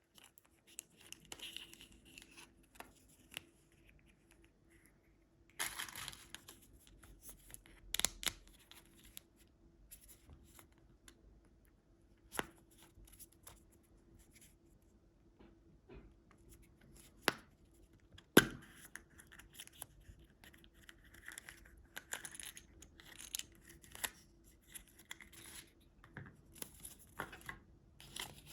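Candy packaging being torn open and crinkled in short bursts of rustling, with scattered sharp clicks and quiet pauses in between.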